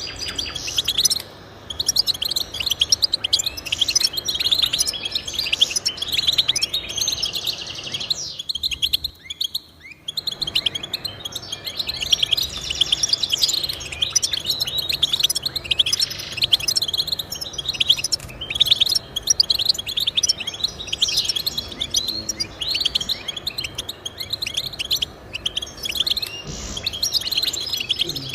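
A finch singing a fast, continuous twittering song of rapid high chirps and trills, with a short pause about a third of the way in.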